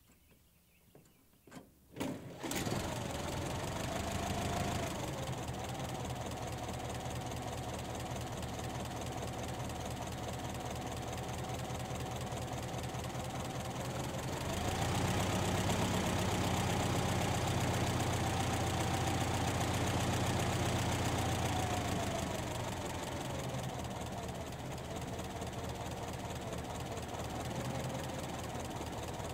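1919 Chevrolet 490's overhead-valve four-cylinder engine, running with its valve gear uncovered. A few short clicks come first, then the engine starts about two seconds in and runs steadily. About halfway through it speeds up and gets louder, then settles back to a slower run after about eight seconds.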